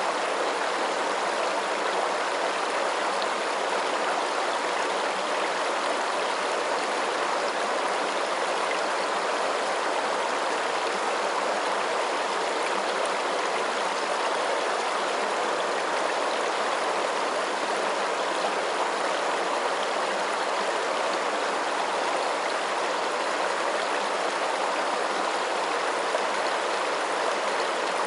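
Steady, unbroken rush of flowing water, like a stream.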